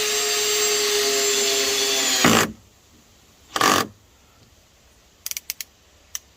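Power drill driving a deck screw into a deck board: the motor runs at a steady whine, then stops abruptly about two seconds in, followed a second later by a short second burst and then a few light clicks. The screw stalling is put down to hitting a knot in the wood.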